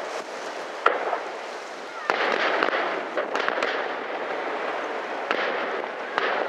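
Aerial firework shells bursting over the sea during a professional display: a run of sharp bangs, the loudest about one and two seconds in, with crackling in between.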